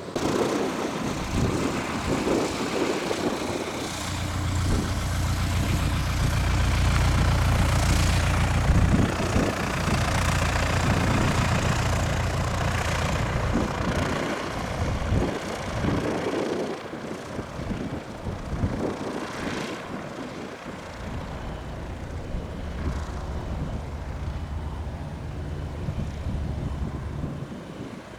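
Aircraft engines running close by, growing louder over the first several seconds and then slowly fading away.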